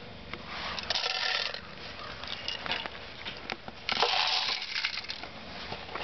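Bird seed scooped with a cup and poured into a bird feeder: two rushing pours, about a second in and about four seconds in, with scattered ticks of seeds between them.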